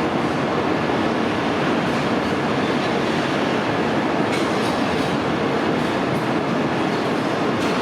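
Freight train rolling past: steady wheel and rail noise from the wagons, with one sharp click about four seconds in.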